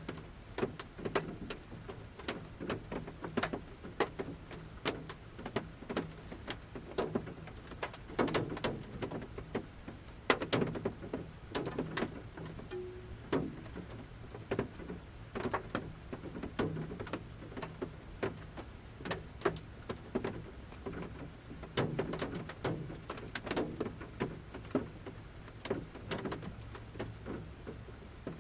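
Large raindrops falling from the forest canopy onto the metal roof of a camper van, heard from inside: sharp taps at uneven intervals, each with a short hollow ring, over a faint steady low hum.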